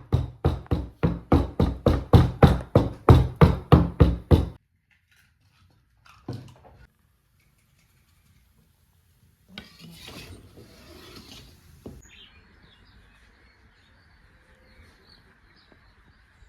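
A quick run of about eighteen sharp knocks, about four a second, for the first four seconds or so. Then a single knock, a few seconds of rustling, and faint high chirping near the end.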